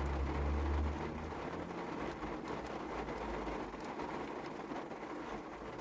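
Heavy rain falling steadily on the van, with scattered drop ticks. A low hum is heard in the first second or so, then fades.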